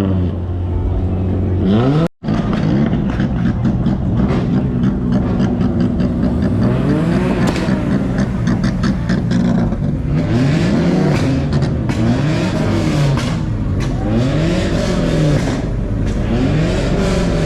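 Sports car engines revving over and over, the pitch climbing and falling back in quick blips about once a second, with sharp pops between revs in the second half. The sound cuts out completely for a moment about two seconds in.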